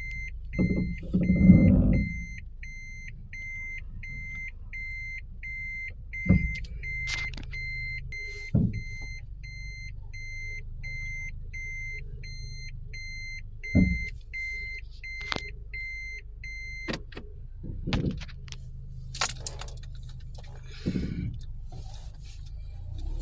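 A car's warning chime beeps steadily, about two beeps a second, and stops about 17 seconds in. Under it runs the low, steady hum of the car's engine, and a few dull thumps sound.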